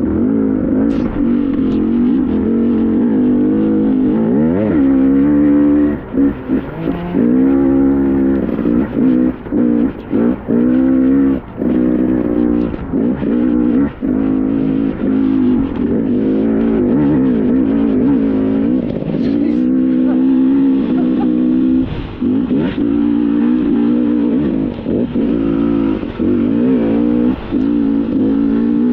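KTM two-stroke dirt bike engine revving up and down under constant throttle changes while riding a trail, with brief throttle chops every few seconds.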